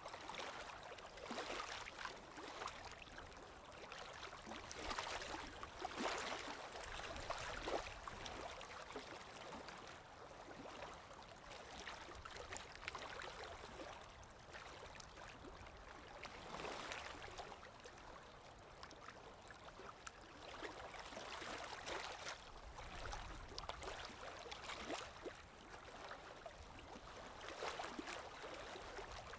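Running water flowing steadily, swelling louder now and then.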